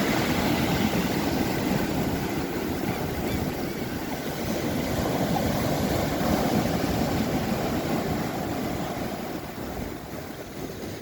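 Sea surf washing onto a sand-and-pebble beach: a steady rushing that swells and eases, then dies down near the end.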